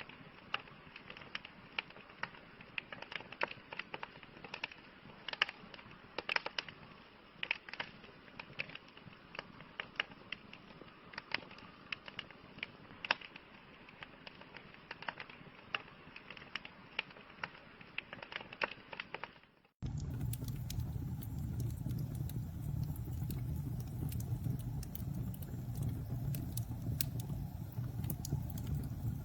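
Wood fire crackling with sharp irregular pops over a faint hiss. About two thirds of the way in it cuts abruptly to a louder recording: a steady low roar of flames with occasional pops.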